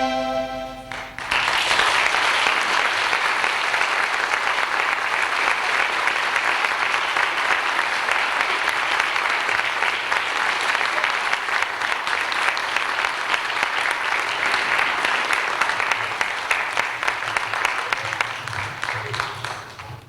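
A held musical chord stops about a second in, and an audience breaks into steady clapping that dies away near the end.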